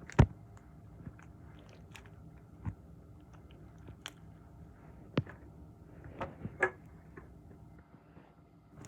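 Squishy toys handled and squeezed close to the microphone: sparse faint crackles and soft taps over a low steady hum. There is a sharp knock just after the start, and a few more knocks about two and a half, five and six seconds in.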